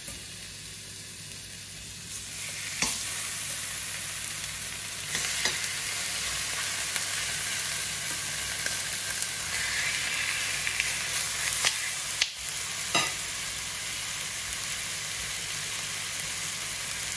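Rump steak searing in a very hot frying pan with no oil, a steady sizzle that gets louder about two seconds in and again about five seconds in. A few light knocks sound over it.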